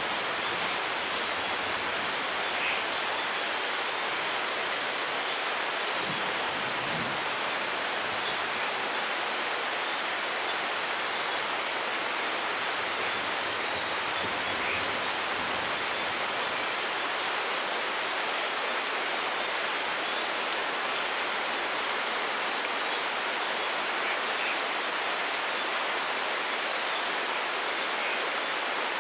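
Steady rainfall, an even hiss of rain with faint scattered drops.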